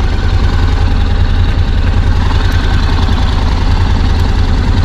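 Vehicle engine running with a steady low rumble under road noise.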